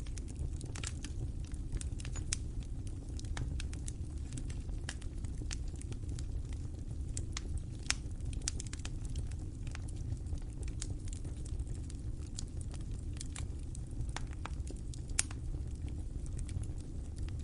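Wood fire crackling in a fireplace: irregular sharp pops and snaps over a steady low rumble of the flames, with two louder pops about eight and fifteen seconds in.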